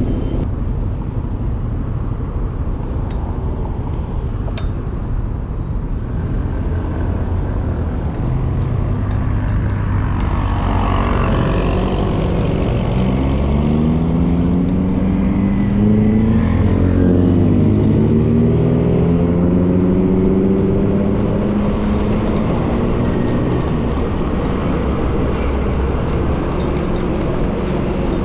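Road traffic and wind rumble heard from a moving bicycle, with a nearby motor vehicle's engine accelerating in the middle, its pitch rising over several seconds and then levelling off.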